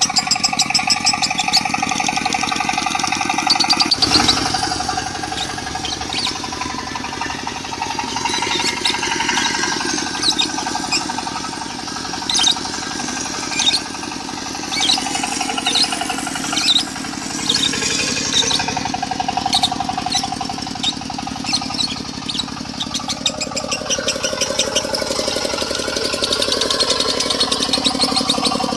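Lovebird song in the long, unbroken chattering 'konslet' style, full of sharp high chirps, laid over a diesel engine running steadily.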